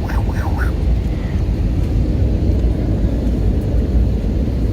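Steady low rumble of an airliner in flight, heard from inside the passenger cabin.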